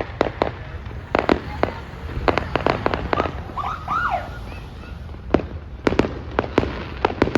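Fireworks display: sharp bangs and cracks at irregular intervals, a dense cluster in the second half, over a constant low rumble.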